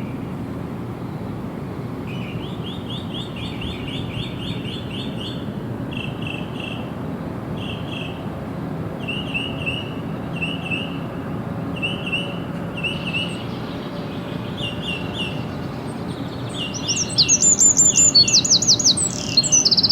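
Wild songbirds singing: one bird repeats short trilled phrases again and again, and a second bird comes in louder near the end with a fast, higher trill. A steady low background rumble of outdoor noise runs underneath.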